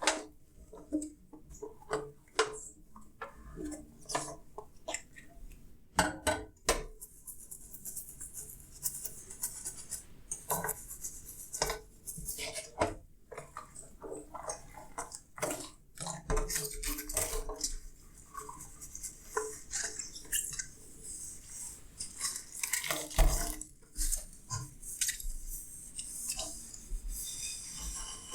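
Dishes being washed by hand: repeated clinks and knocks of crockery and cutlery against each other and the sink, with a scrubbing hiss from about a third of the way in. The loudest knock comes near the end.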